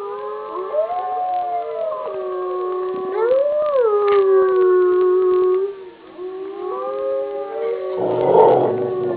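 A chorus of several long howls overlapping at once, each gliding slowly up and down in pitch, with the dog howling among them. The howls dip briefly about six seconds in, and a loud, rough, noisy burst comes near the end.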